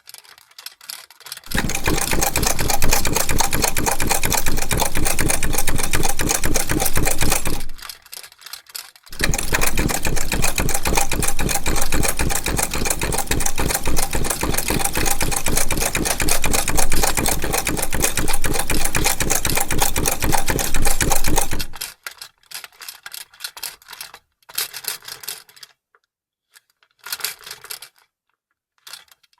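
Vintage sewing machine stitching: a rapid, steady mechanical clatter in two long runs with a short pause about eight seconds in. The run stops about twenty-two seconds in, leaving scattered light clicks.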